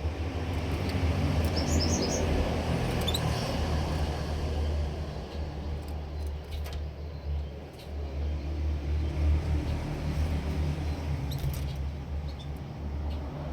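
A few brief high bird chirps over a steady low rumble.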